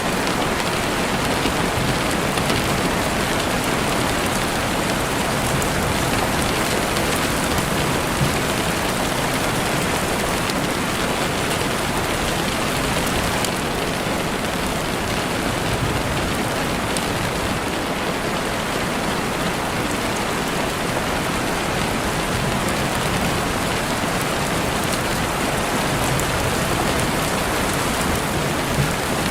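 Heavy rain falling steadily on a window, a dense even hiss of drops with no let-up.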